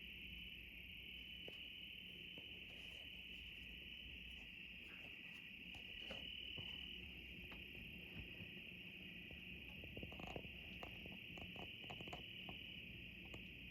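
Crickets trilling steadily and faintly in an unbroken chorus, with a few light clicks and rustles in the second half.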